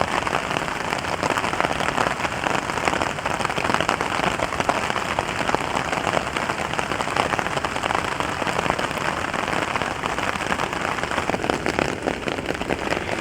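Heavy rain falling on a camping tarp over a hammock: a dense, steady patter of countless drops.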